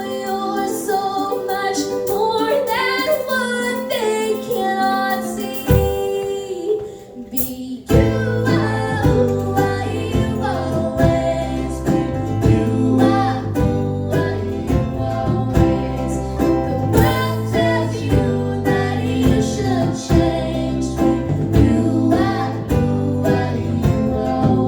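Live country band performing a song: a young girl singing over plucked strings, a brief lull about six seconds in, then the full band coming in about eight seconds in with bass and a steady beat.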